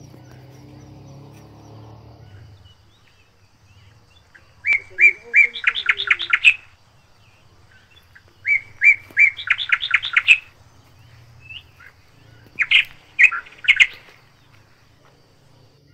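A songbird sings three loud phrases about four seconds apart; each opens with a few separate notes and speeds into a quick run of notes.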